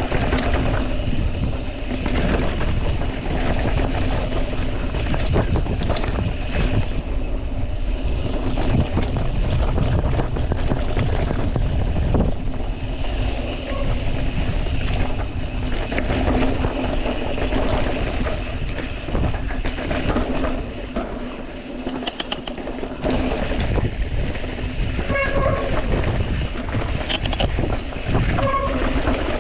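Wind buffeting the microphone and mountain bike tires rumbling over a dirt and rock trail at speed, with a steady low hum underneath; the noise eases briefly about two-thirds of the way through.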